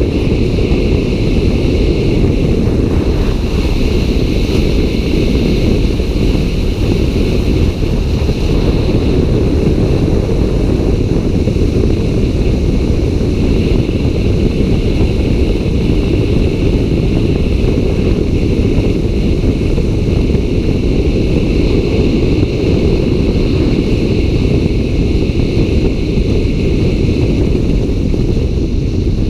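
Loud, steady rumble of wind buffeting the microphone, unbroken throughout, with a fainter constant hiss higher up.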